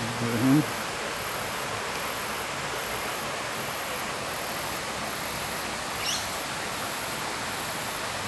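Steady rush of running water around rock pools, with a high insect buzz pulsing about three times every two seconds. A short voice-like sound comes at the very start, and a single rising bird chirp about six seconds in.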